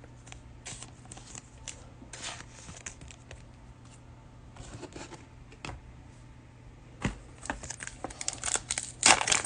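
Trading cards being handled with light rustles and flicks, then from about seven seconds in a cellophane card pack crinkling loudly as it is torn open and the cards slid out.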